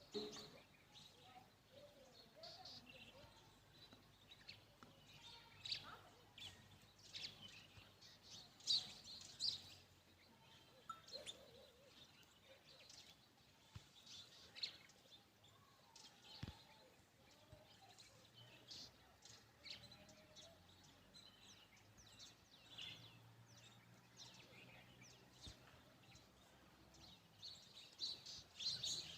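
Birds chirping faintly: many short, high chirps come and go in scattered clusters, busiest about a third of the way in and again near the end.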